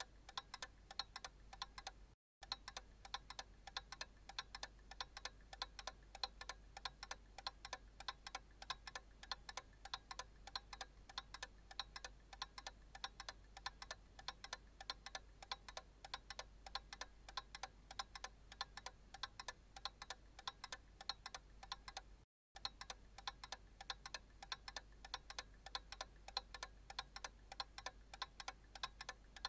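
Analog clock ticking steadily with even, evenly spaced ticks. The ticking breaks off in two very short silent gaps.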